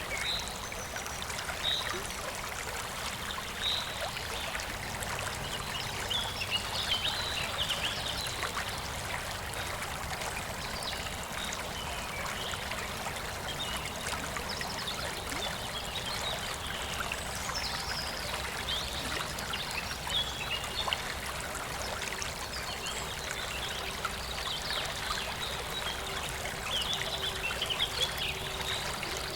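A small stream trickling and splashing steadily, with birds chirping on and off over it: single short high notes about every two seconds at first, then scattered bursts of chatter.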